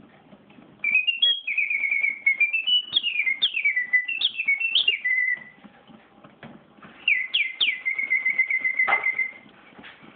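Clockwork singing-bird-cage automaton whistling a bird song in two warbling phrases of chirps, upward swoops and held trilled notes, with a short pause between them and a sharp click near the end of the second phrase.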